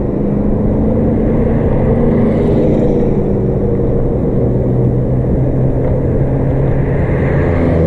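Road traffic: car engines running and passing close by, a steady low rumble with engine notes that slowly rise and fall.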